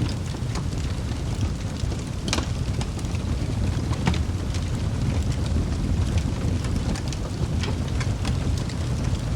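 Wood fire burning in a fireplace: a steady low rumble of flames with scattered sharp crackles and pops from the burning logs, the loudest about two and four seconds in.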